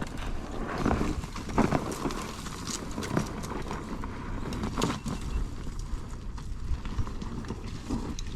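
Irregular knocking and clattering on rock, over a low steady rumble.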